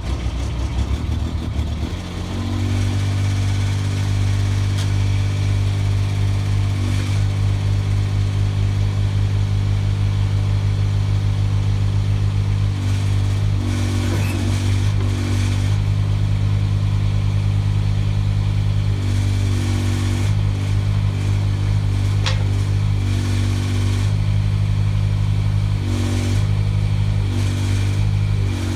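Mini excavator engine running just after starting, settling into a steady run about two seconds in. Its note changes briefly a few times, from about midway on.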